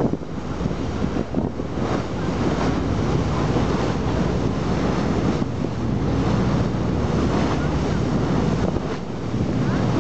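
Wind buffeting the microphone over the wash of sea waves, with a low steady hum underneath.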